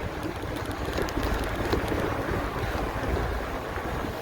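Wind rushing over the microphone of a rider on a moving bicycle, a steady low rumble.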